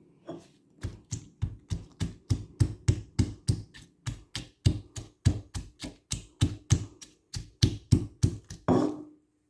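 Garlic cloves and red chilies being crushed with repeated hard strikes, about three to four a second in a steady rhythm.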